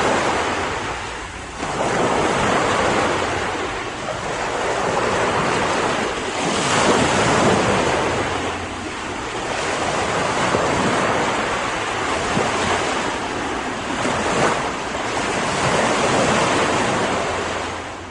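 Ocean surf: waves breaking and washing ashore in a steady hiss that swells and ebbs every few seconds, fading out near the end.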